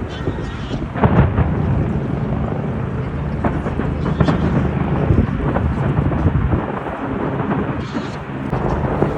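Fireworks going off in rapid succession: a continuous rumble of booms with sharper bangs on top, the strongest about a second in and again about four seconds in.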